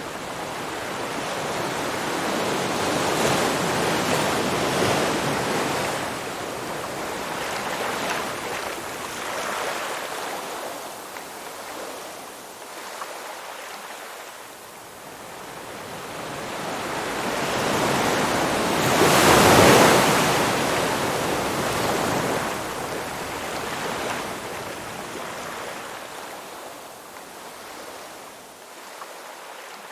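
Ocean surf: waves breaking and washing in, the rushing noise swelling and ebbing every few seconds. The biggest wave comes a little before two-thirds of the way through.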